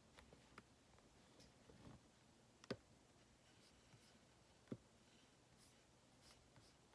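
Near silence in a small room, broken by faint scattered clicks and light taps, with two short louder taps a couple of seconds apart.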